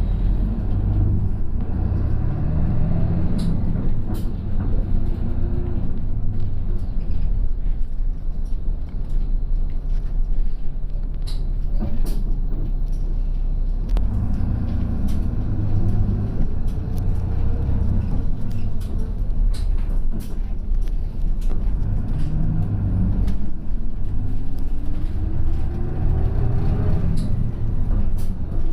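Route bus running, heard from inside the cabin. The engine's pitch rises repeatedly as it accelerates through the gears, with scattered rattling clicks. There is a quieter stretch in the middle before it pulls away strongly again about fourteen seconds in.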